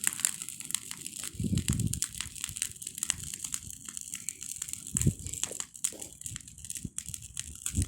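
Campfire crackling, with many small sharp pops and snaps, and a couple of brief low rumbles about a second and a half in and again around five seconds.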